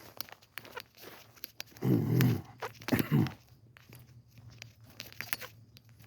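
Two loud animal calls about a second apart, the first longer, with light footsteps on a path around them.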